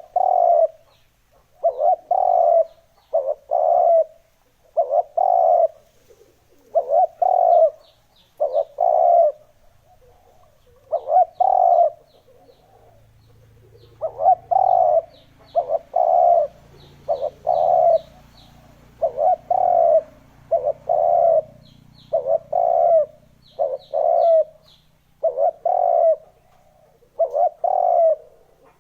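Spotted doves cooing: a steady series of repeated coo phrases, one about every second and a half to two seconds, with short high chirps between them.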